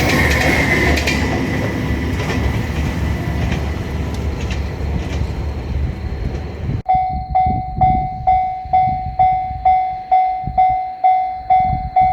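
A diesel railcar passes over a level crossing, its wheels clacking over the rail joints. About seven seconds in, the train noise cuts off abruptly. What is left is the Japanese level-crossing bell ringing on its own in a steady rhythm, about two strikes a second.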